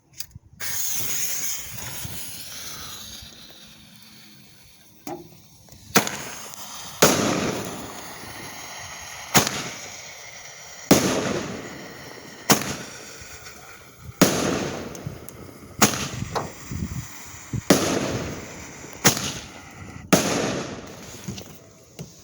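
Five-shot consumer firework (Clown Fireworks Stars of Thunder) going off: the lit fuse hisses for about five seconds, then a string of sharp bangs follows roughly every one and a half seconds, with hissing and crackling between them, as the shots launch and burst.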